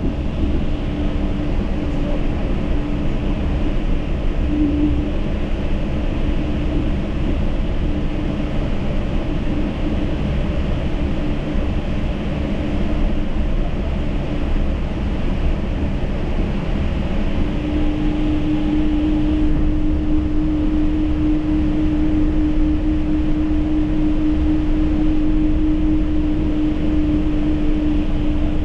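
Yurikamome rubber-tyred automated train running: a steady low rumble of tyres and running gear, with a steady hum that grows much stronger from about 17 seconds in.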